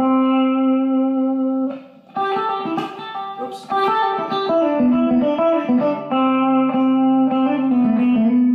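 Electric guitar playing a single-note country lead lick over a G to C change: a held note, a short break about two seconds in, then a run of notes resolving onto the C chord.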